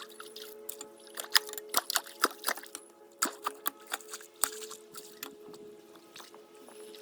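Irregular splashes and sharp knocks in a shallow outflow stream as rocks are shifted in the water, over a steady low hum.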